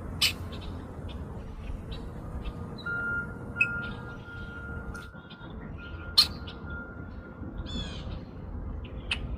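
Red-winged blackbird calling: two loud, sharp call notes, one just after the start and one about six seconds in, with softer chips between and a short buzzy trill near the eighth second. A steady low rumble runs underneath.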